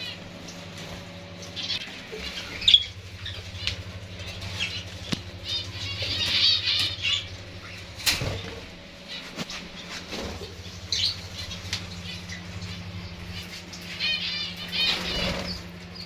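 Small caged finches fluttering their wings, with bursts of rapid chirping and scattered clicks and knocks over a steady low hum.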